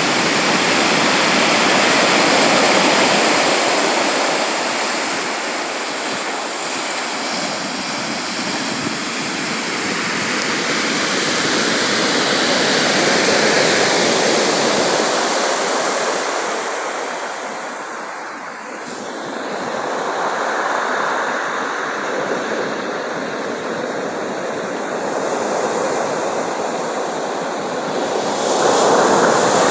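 Sea waves breaking and washing ashore, a continuous surf rush that swells and eases slowly over several seconds, dipping about two-thirds of the way through before building again near the end.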